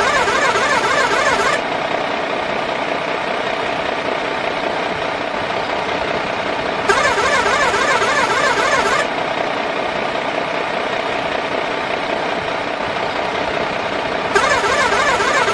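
Remote-control toy truck's small electric motor and gearbox whirring steadily, with a louder, harsher stretch of about two seconds near the start, again about seven seconds in, and once more near the end.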